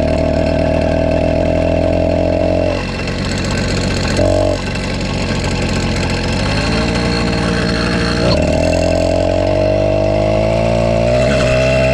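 Motorized bicycle's small engine running steadily, then stumbling about three seconds in with a brief blip of revs, before picking back up and climbing steadily in speed. It is a falter that the engine recovers from.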